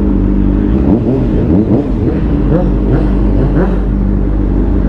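Sport bike engine running under way, with several short rising revs in quick succession over a steady engine drone.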